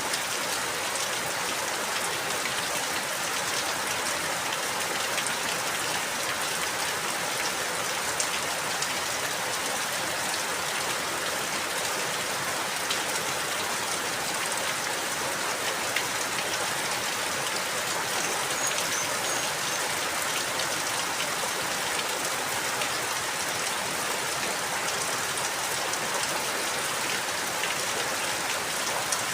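Steady rainfall, an even hiss with scattered sharper drop ticks.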